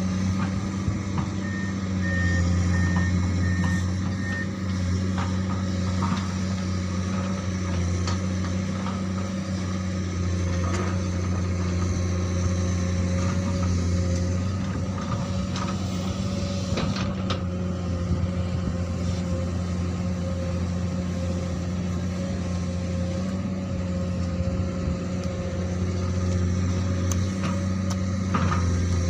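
Komatsu PC200 excavator's diesel engine running steadily as it works, with occasional knocks from the digging. A brief run of short high beeps sounds about two seconds in.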